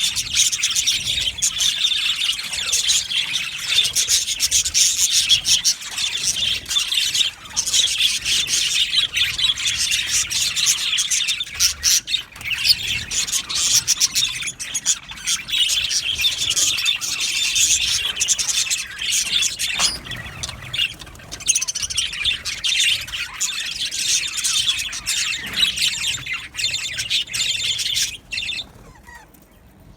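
A colony of budgerigars chattering and chirping, many birds calling over one another in a dense, continuous stream of high calls; the chatter dies down near the end.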